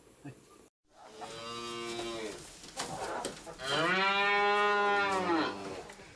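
Cow mooing twice: a shorter call, then a longer, louder one that rises and falls in pitch.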